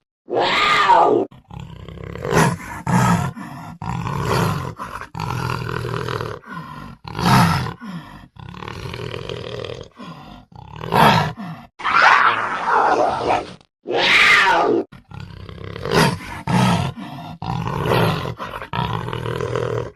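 Panther (big cat) roaring in a string of about a dozen separate calls with short gaps between them, some brief and some drawn out over a second or two, the recording panned around in 8D audio.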